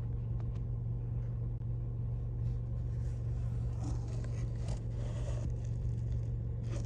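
A steady low drone, like a running engine or machine, with light rustling and scraping handling noises over it.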